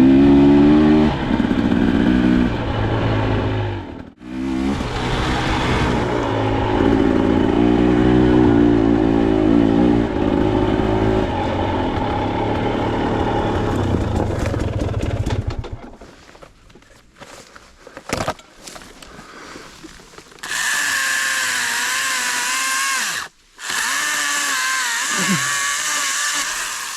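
Dirt bike engine running for about the first sixteen seconds, dropping out briefly about four seconds in, then going quiet. Near the end, a Stihl GTA 26 battery pruning saw runs in two bursts of about three seconds each with a high whine, cutting trail brush.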